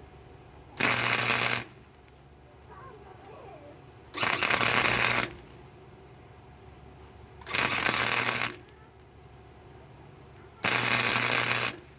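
Harbor Freight flux-core wire welder striking four short welds of about a second each, about three seconds apart, each a crackling hiss with a buzz underneath, on thin truck floor-pan sheet metal. The welder is turned all the way down with the wire speed up, yet it still burns through the thin metal.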